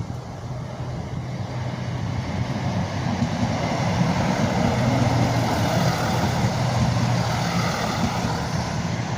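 Class 170 Turbostar diesel multiple unit running past on the line, its underfloor diesel engines humming steadily under the rumble of wheels on rail. It grows louder to a peak about halfway through, then eases slightly.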